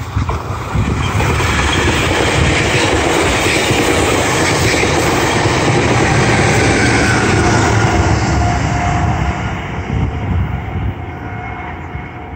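Coaster commuter train of bilevel coaches passing close by, a loud, steady rush and rumble of wheels on the rails that eases off over the last few seconds as the train moves away.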